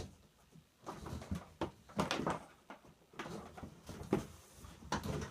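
Handling noise from plastic shop vac parts: a string of irregular knocks and clicks as pieces are fitted and set down. The vacuum motor is not running.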